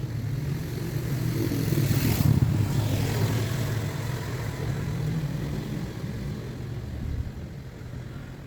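A car engine running with a low rumble, swelling about two seconds in and then slowly fading.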